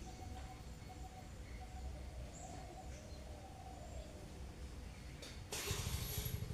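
Faint bird calls and chirps over a steady low background rumble, with a louder rushing noise coming in near the end.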